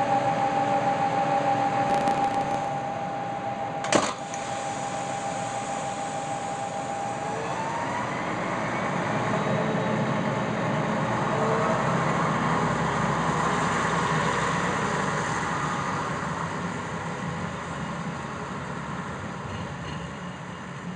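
A train at a station: a steady high squeal for the first seven seconds, with a sharp click about four seconds in. Then a rising whine and a rumble swell and fade toward the end as the train moves.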